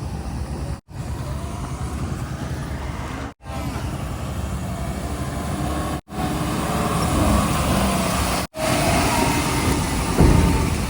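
Heavy diesel vehicle engines running in a string of short clips. The sound breaks off with a brief silent gap every two to three seconds, and there is a louder surge near the end.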